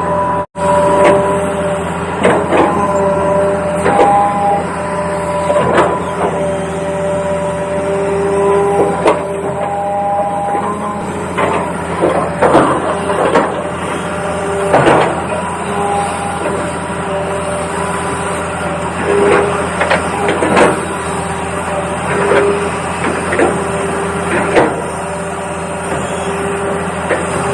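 Toy remote-control excavator running: a steady electric hum, with short whirring motor tones that jump between pitches as its functions are worked. Frequent plastic clicks and knocks come from its gears and moving parts.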